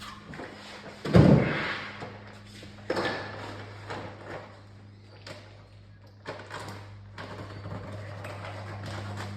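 A loud thud about a second in, a second thud near three seconds, then several lighter knocks, over a steady low hum.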